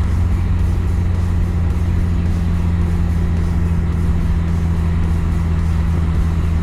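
Car driving at a steady speed: a constant low engine and road drone, with music playing over it.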